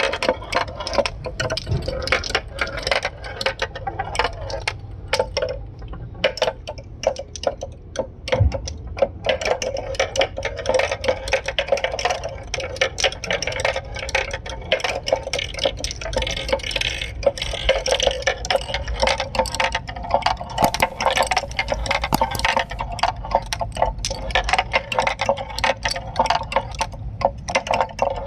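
Marbles rolling and clattering along a homemade marble run track: a continuous stream of rapid clicks and rattles as many marbles knock against the track and each other.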